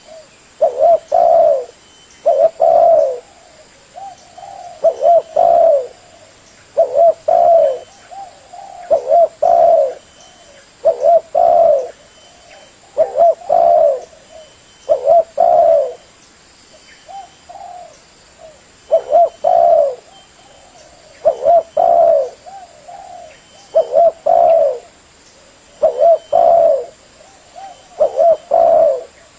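Spotted dove (tekukur) cooing: a short, loud cooing phrase repeated about every two seconds.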